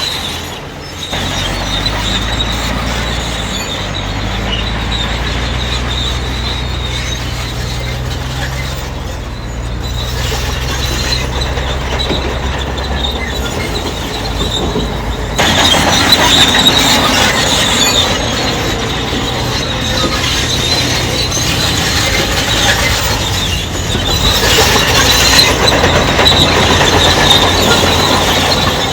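Crawler bulldozer working: its diesel engine drones steadily while the steel tracks squeal and clank. The track noise grows louder about halfway through.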